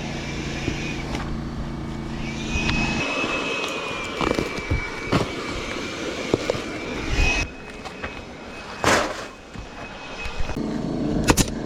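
A motor hums steadily, cuts off about three seconds in and starts again near the end, with scattered knocks and clicks in between and two sharp snaps near the end.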